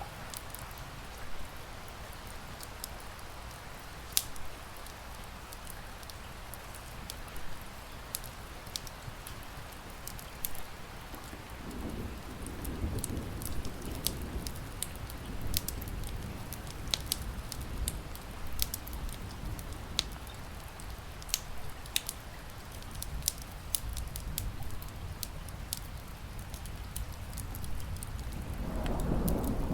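Wood fire crackling with sharp, scattered pops over a steady patter of rain. Low thunder rumbles twice, about twelve seconds in and again building near the end.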